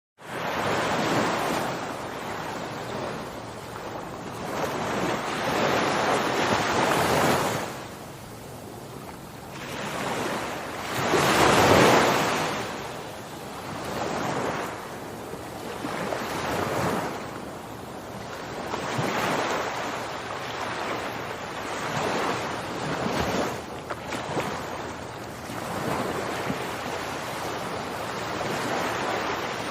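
Ocean surf: waves breaking and washing back, swelling and ebbing every few seconds, starting abruptly out of silence.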